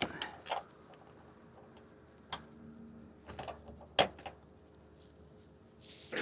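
Scattered clicks and knocks of hands working on a truck's tail light, about eight in all and the sharpest about four seconds in, with quiet between them. A rushing noise rises right at the end.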